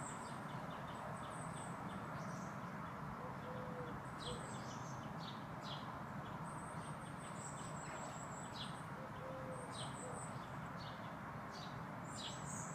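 Small garden birds chirping: many short, high, sharp notes scattered throughout, over a steady background hiss.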